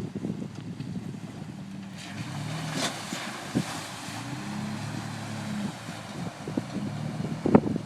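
Jeep Wrangler JK engine running while driving, its note shifting up and down, with wind rushing over the microphone. A short hissing wash comes about three seconds in, and a few sharp knocks come later, the loudest near the end.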